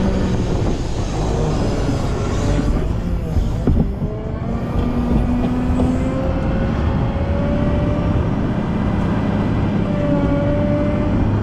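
Volvo L90F wheel loader's diesel engine running under load, its speed and a whine rising and falling as it works snow. A few sharp knocks a little before the middle.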